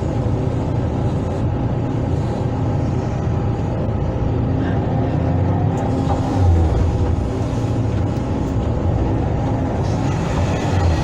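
Hydraulic excavator's diesel engine running steadily under load, swelling briefly about six and a half seconds in.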